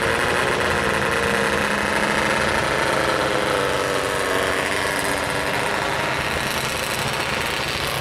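Drag-racing cars' engines idling steadily at the starting line while staging, a continuous rumble with no launch or hard revving.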